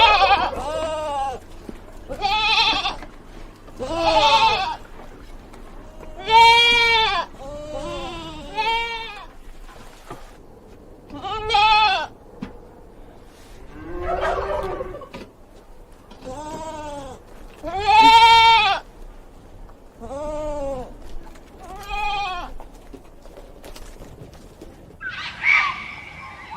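Goats bleating over and over, a dozen or so calls a second or two apart, each rising and then falling in pitch, some higher than others.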